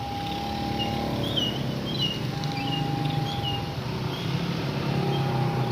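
Diesel locomotive running steadily with a low rumble, and a steady higher hum that comes and goes three times. Repeated short, high bird chirps sound over it.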